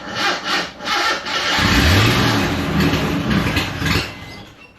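1987 Jeep Wrangler YJ engine cranking over with the starter and catching about a second and a half in. It runs and revs up and back down, then dies away about four seconds in.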